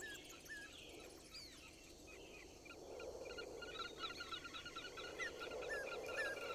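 Wild birds calling with short chirps over a faint outdoor background; from about halfway in, the chirps turn into a dense, quick repeated series.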